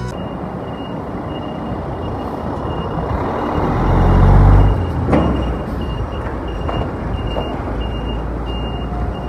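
A truck's reversing alarm beeping steadily at a high pitch over its running engine. The engine surges loudly for about a second, some four seconds in, as if under load.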